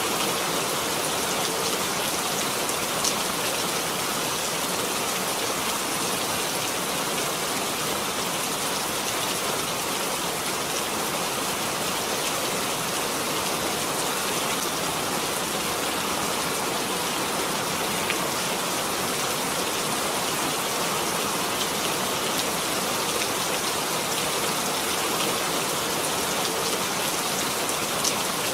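Steady rain falling, a dense even hiss of drops on surfaces, with an occasional louder single drop.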